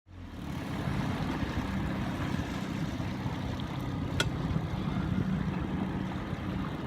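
Boat motor running steadily, a low even rumble, with a single sharp click about four seconds in.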